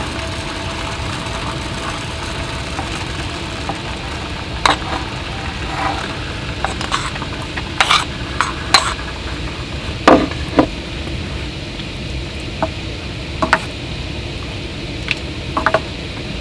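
Camp cooking: utensils stirring and knocking against cookware, a dozen or so sharp clinks and taps, the strongest about eight to eleven seconds in, over a steady hiss.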